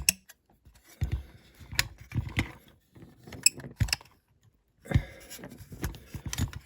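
Irregular clicks, taps and scrapes of small die-cast toy parts being handled, as the interior of a Dinky Toys Ford Transit van is worked loose from the body, which is resisting.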